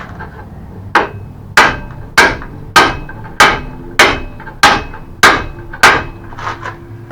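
A hammer striking the rusty hinge pin of a mobility scooter to drive it out: nine hard, ringing metal blows about 0.6 s apart, followed by a couple of lighter taps near the end.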